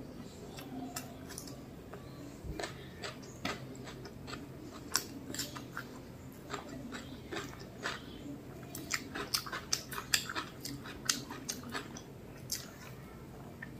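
Close-up chewing of mutton biryani eaten by hand: a run of short wet clicks and smacks from the mouth, thickest about two thirds of the way through, over a faint steady low hum.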